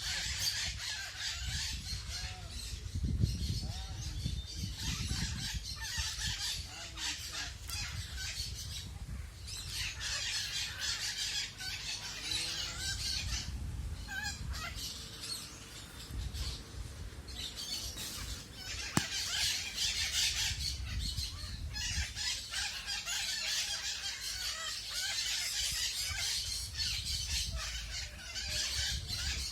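A flock of maracanã macaws and parakeets squawking and chattering together in a dense chorus, with a few brief lulls.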